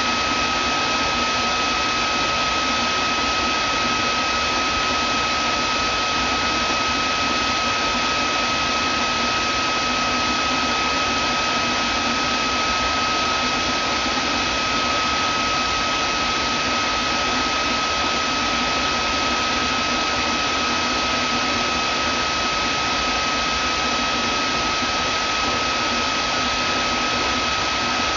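Vacuum cleaner motor running steadily: an even whoosh of air with a constant high whine on top.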